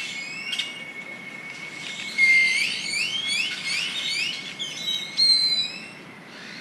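Birds calling at nightfall: a run of quick rising whistled notes, about two a second, over a steady high-pitched tone, then a held, higher whistle near the end.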